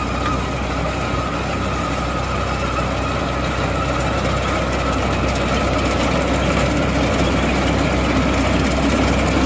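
Tractor engine running steadily at a constant speed, powering an Allis-Chalmers Roto Baler, growing slightly louder near the end.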